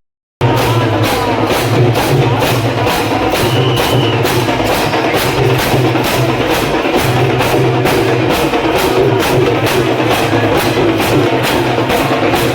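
Dhol-tasha drums playing a fast, steady beat, starting after a half-second break at the beginning.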